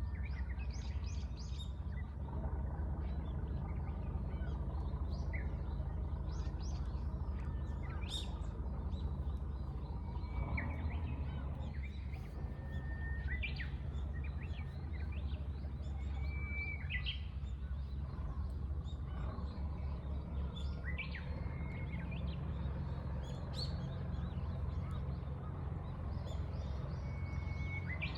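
Wild birds chirping and calling in short, scattered notes, some as quick whistled slides, over a steady low rumble.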